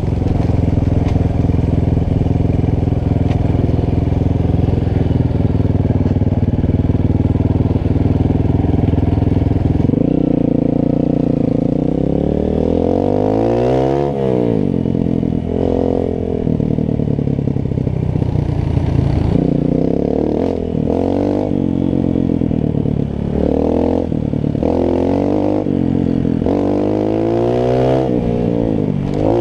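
Honda CRF trail bike's single-cylinder four-stroke engine running at a steady speed for about ten seconds, then rising and falling in pitch again and again as the throttle is opened and closed.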